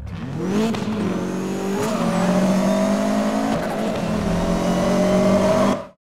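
Car engine revving up and accelerating, then running at steady high revs with a brief dip about three and a half seconds in. It cuts off suddenly near the end.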